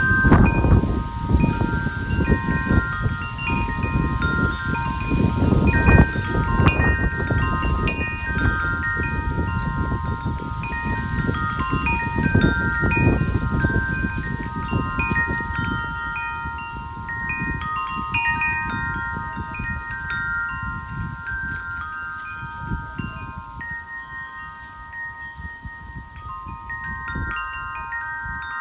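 Wind chimes ringing continuously in gusting wind, several tones struck over and over in an irregular jumble and sustaining. Low wind rumble on the microphone sits under them, stronger in the first half and easing off in the second.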